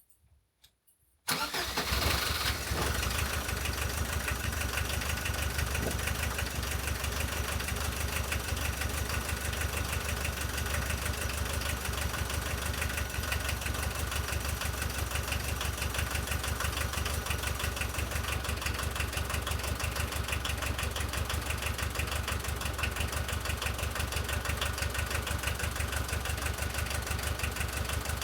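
VW T3 four-cylinder diesel engine catches about a second in and settles into a steady idle with diesel clatter. It is running on a freshly cleaned and reassembled injection pump that still needs adjusting.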